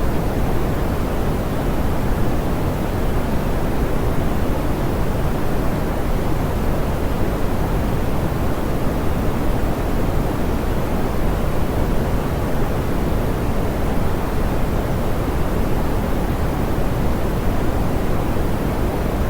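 Steady, soft pink noise: an even hiss weighted toward the low end, with no change or break.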